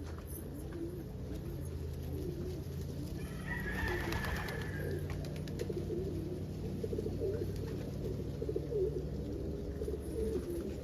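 Domestic pigeons cooing in a loft: several low, warbling coos overlapping one another.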